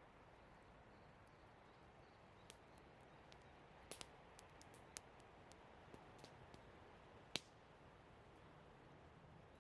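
Campfire of burning wood crackling faintly: scattered sharp pops and clicks over a low steady hiss, a few close together about four seconds in and the loudest pop about seven seconds in.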